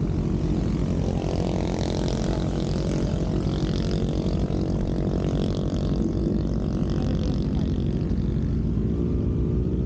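Motorcycle engine running at a fairly steady speed while riding.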